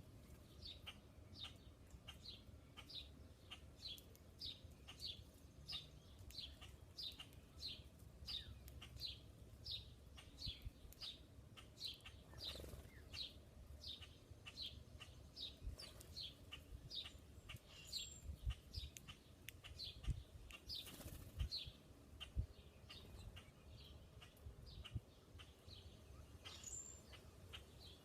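A bird calling one short, high chirp over and over, about two a second, steady for much of the time, with a fainter, higher call now and then.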